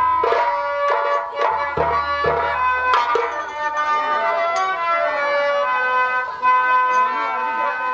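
Nautanki stage music: drum strokes with deep thumps for about the first three seconds, then a melody of long held notes.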